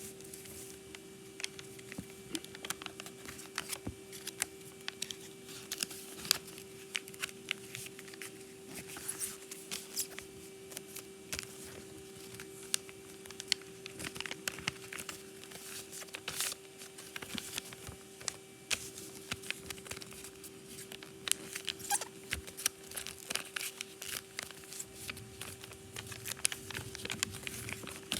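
Sheet of origami paper being folded and creased by hand: irregular rustles, crinkles and sharp little taps and scrapes, over a steady faint hum.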